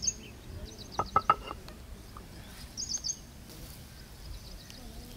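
A small bird chirping in quick runs of four or five high notes, repeated every couple of seconds. A few sharp clinks or knocks come about a second in.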